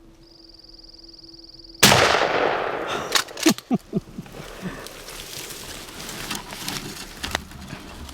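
A single shotgun shot at a wild turkey about two seconds in: one sudden loud blast that rings out and dies away over a second or two, followed by a few short, sharp noises.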